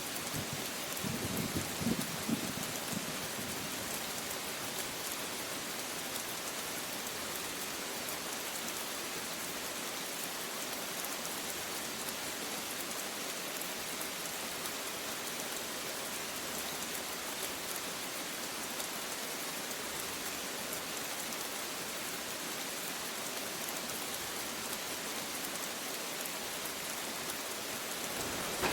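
Steady rain falling, an even hiss with no change in strength. About a second in comes a short, low rumble of thunder lasting a couple of seconds.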